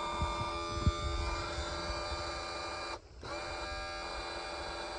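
Power trim/tilt unit of an Evinrude XP 150 outboard running, a steady electric motor and pump whine that stops briefly about three seconds in and then starts again. A single knock about a second in.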